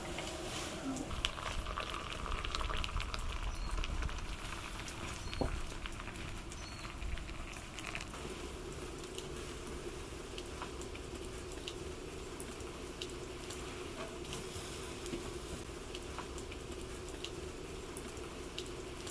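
Rain pattering, with many scattered drops ticking. A faint steady tone comes in about eight seconds in.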